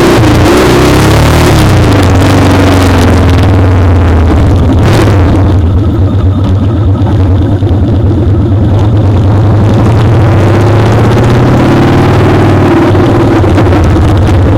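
Motorcycle engine running under way, heard close up from the foot peg, with loud wind rush that drops away about five seconds in as the bike eases off. The engine pitch dips and then climbs again near the end as it accelerates.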